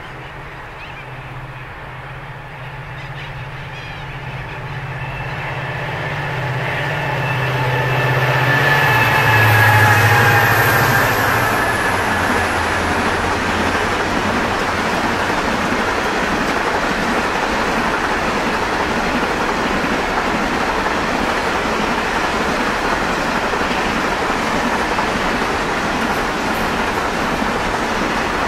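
Freight train passing: the diesel locomotives' engine drone grows louder and drops in pitch as they go by about ten seconds in. A long rake of grain hopper wagons follows with steady rolling rumble and clickety-clack of the wheels on the rail joints.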